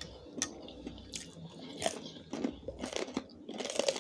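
A person chewing and biting food close to the microphone, with irregular crunches and crackles.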